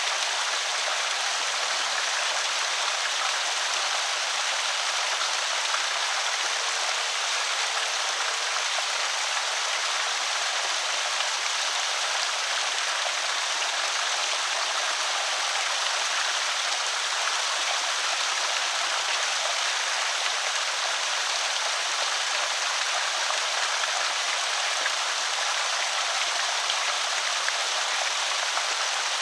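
Water pouring over a small creek spillway, a steady splashing rush with no change.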